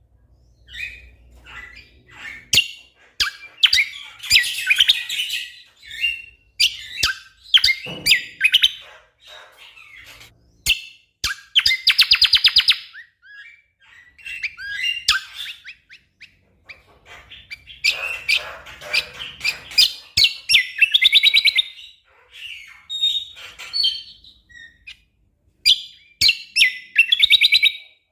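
Cucak kombo (kecial kombok) songbird singing a busy, varied song of quick chirps and phrases with short pauses, including a long rapid trill about halfway through.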